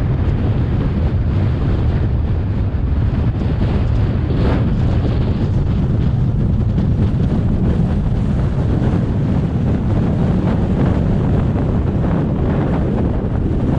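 Blizzard wind buffeting the microphone: a loud, steady low rumble.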